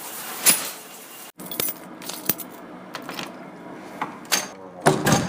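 Keys jangling and clicking in a string of small sharp metallic sounds, with a louder clatter near the end.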